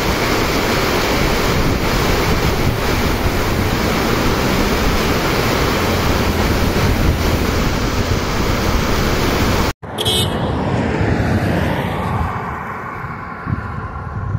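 Heavy rain pouring down on a street, a steady loud rush. Just under ten seconds in it cuts off abruptly and gives way to wind gusting on the microphone.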